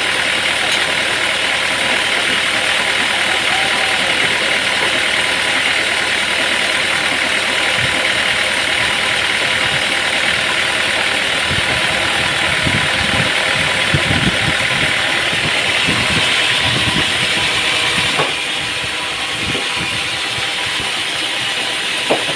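Machinery engine running steadily, dropping slightly in level about eighteen seconds in.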